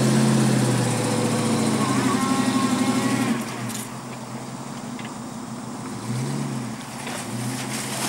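Range Rover Classic's V8 engine pulling under load, loud for the first three seconds, then easing off to a quieter run, with a short rev about six seconds in and another starting near the end.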